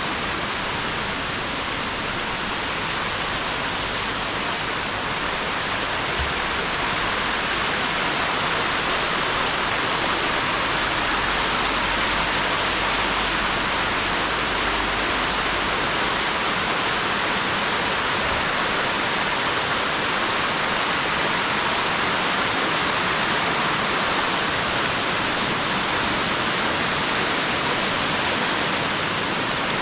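Waterfall: water pouring down rock steps, a steady rushing hiss.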